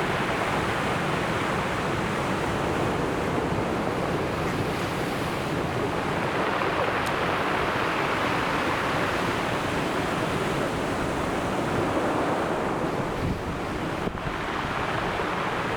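Sea surf washing on the shore: a steady rushing wash of waves that swells louder for a few seconds around the middle.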